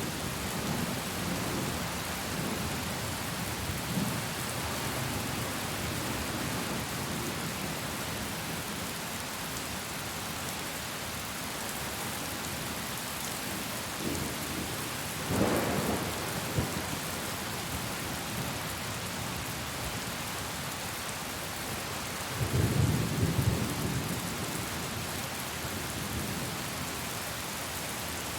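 Steady heavy rain with thunder rumbling low beneath it: a short roll a little past halfway and a longer one about three-quarters of the way through.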